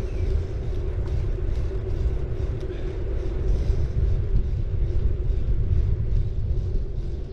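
Bicycle tyres rolling along the road during a ride, with a heavy, uneven rumble of wind on the action-camera microphone and a steady low hum underneath.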